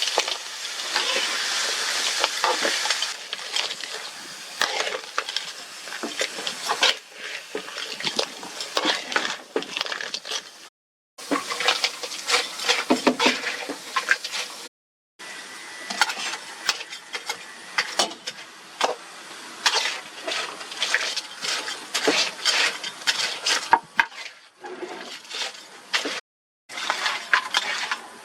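Crab frying in a pan, sizzling for the first few seconds, then repeated clicks and clatters of a utensil stirring against the pan. The sound drops out abruptly three times.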